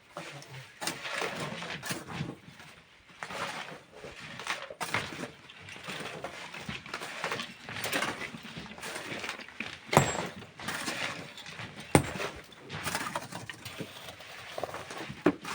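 Hand tools working sand and rock: irregular scraping and crunching, with two sharp strikes about two seconds apart past the middle and a smaller one near the end.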